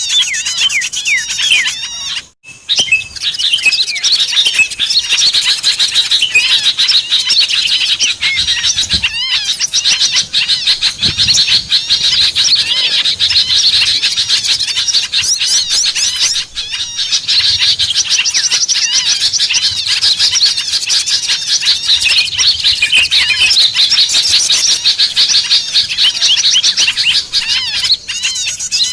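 A dense chorus of many small songbirds chattering and twittering at once, recorded as a lure call to draw wild small birds in. There is a brief break a little over two seconds in.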